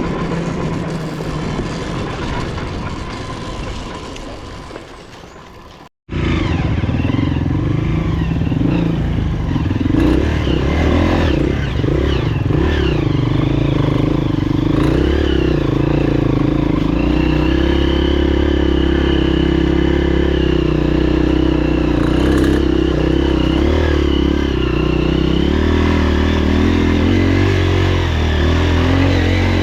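Dirt bike engine: a fading engine sound breaks off abruptly about six seconds in, then an engine runs loud and steady, its pitch wavering briefly before holding even.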